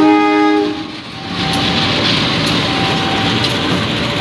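Passenger train passing close by. A KAI CC 201 diesel-electric locomotive goes by with a loud, steady multi-note tone lasting under a second at the start. Then the carriages roll past on the rails with a steady rushing clatter.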